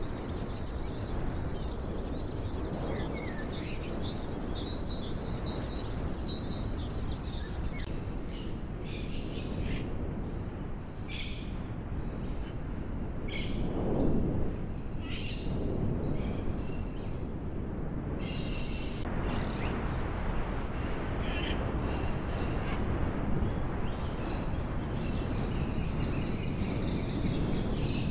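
Birds chirping over a steady rushing background, with short whistled calls busiest in the first few seconds and scattered after. The background changes abruptly twice, as at edits between recordings.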